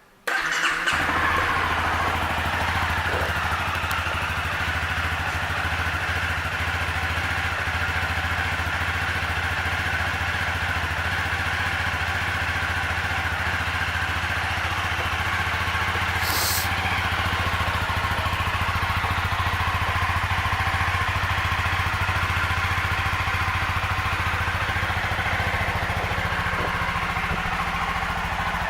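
Honda CBR300R's single-cylinder engine, which comes in suddenly right at the start and then idles steadily with no revving. There is a brief high hiss about halfway through.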